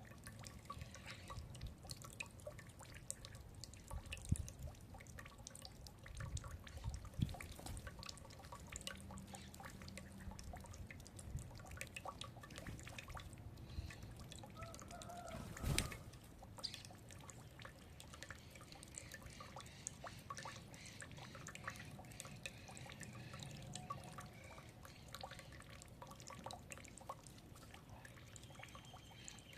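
Birds feeding: many light irregular clicks and taps of pecking, with a louder knock about sixteen seconds in and a few brief soft calls.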